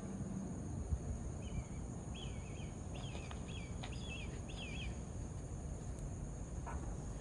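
Black kite calling overhead: a run of wavering, whistled trill notes lasting a few seconds, over a steady high insect buzz.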